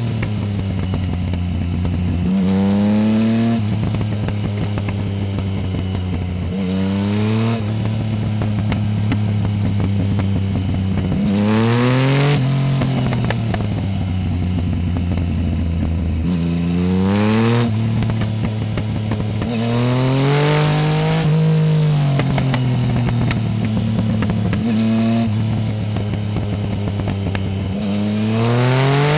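Yamaha Tracer 900 GT's three-cylinder engine through a full aftermarket exhaust with no dB-killer, under way. Its pitch climbs and falls back about seven times as it accelerates and shifts, with steadier cruising between.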